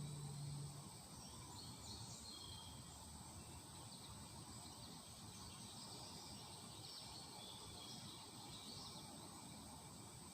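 Quiet ambience: a steady high insect-like hum with faint scattered bird chirps.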